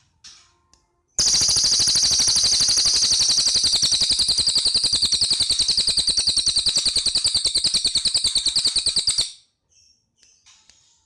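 Cililin songbird giving a loud, fast, machine-gun-like rattling trill, very even, for about eight seconds before it cuts off suddenly. Softer chirping phrases come just before it and again near the end.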